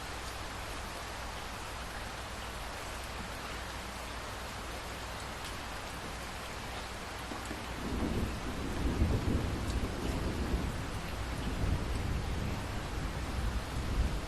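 Steady rain falling, with a low rumble of thunder rolling in about halfway through and continuing, crackling, to the end.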